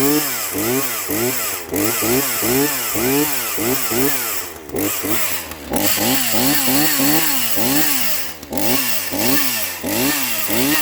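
Brand-new Troy-Bilt TB4218 42cc two-stroke chainsaw running just after it was pull-started, the throttle blipped over and over so the engine revs up and falls back about twice a second, with a few brief drops.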